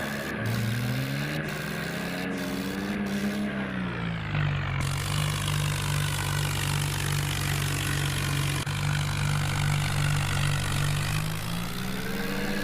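Tractor engine running under revs, its pitch rising and falling, then held steady for several seconds before climbing again near the end.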